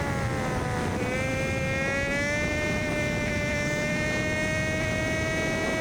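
Hawk 250 dual-sport motorcycle's single-cylinder engine running under way. Its pitch dips about a second in as the throttle eases, then climbs slowly and steadily as it pulls again.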